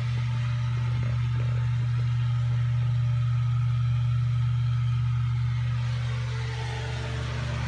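Steady low mechanical hum, engine-like, running without change, with a few faint knocks about a second in.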